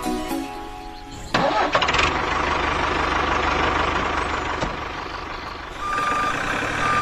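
Music fades out about a second in, then a vehicle engine starts and runs. Near the end a reversing beeper begins sounding evenly spaced high beeps.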